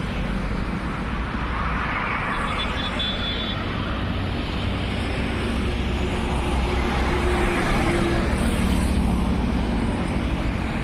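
Motorcycle engine running steadily, powering a bike converted into a load trolley, with its level rising a little past the middle.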